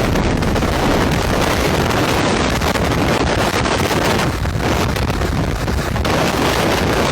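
Loud, steady rushing roar, with wind buffeting the microphone.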